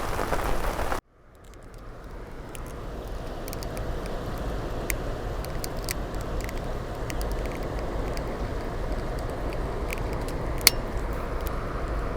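Steady wash of rain and fast-flowing river water, with scattered sharp raindrop taps. The sound cuts out abruptly about a second in and fades back up over the next couple of seconds.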